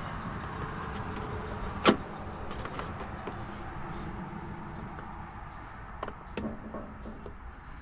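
Clicks and knocks from handling the oil drain hose and plastic milk jug, with one sharp click about two seconds in. A bird chirps repeatedly in the background, short high chirps roughly every second.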